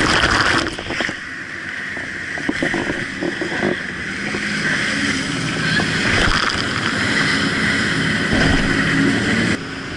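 Jet boat running at speed: a steady engine drone mixed with the rush of water and air. The level drops suddenly near the end.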